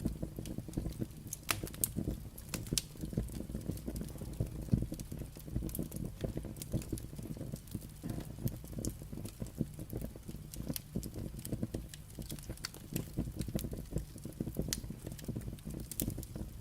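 Burning firewood crackling, with frequent irregular sharp pops and snaps over a low steady rumble.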